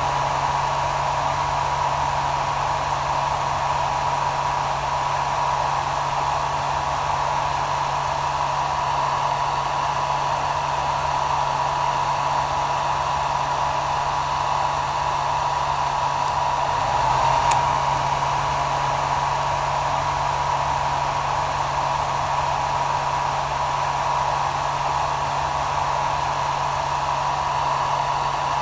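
Hair dryer running steadily: a continuous rush of blown air with a steady whine from its motor and a low hum underneath, swelling slightly for a moment past the halfway point.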